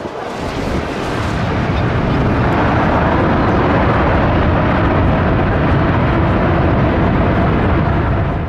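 Jet airliner engines running loud, swelling over the first couple of seconds and then holding steady, with a faint steady whine above the noise.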